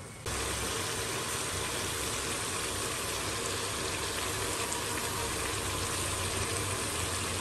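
Chicken pieces sizzling as they fry in a pan: a steady, even hiss that cuts in suddenly just after the start.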